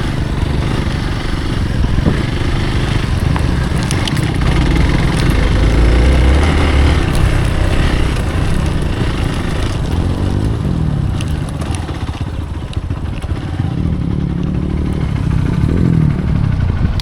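Hero Xpulse's single-cylinder engine running as the motorcycle is ridden, its revs rising and falling with the throttle. It is loudest about six seconds in and eases off for a moment around thirteen seconds.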